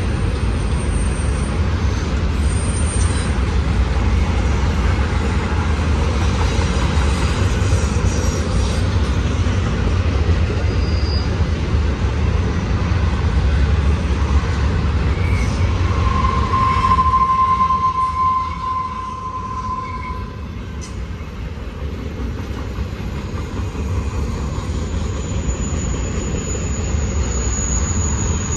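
Double-stack intermodal train's well cars rolling past on a curve: a steady rumble of steel wheels on rail. A held wheel squeal sounds for a few seconds past the middle, and a thinner, higher squeal near the end.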